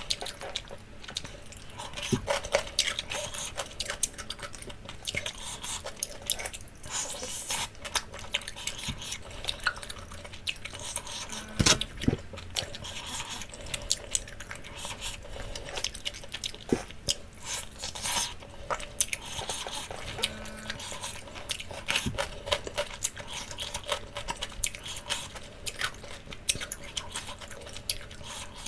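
Close-miked eating sounds of a person chewing roasted jerk chicken, wet and smacking, with scattered small clinks and clicks of tableware. One louder knock comes about twelve seconds in.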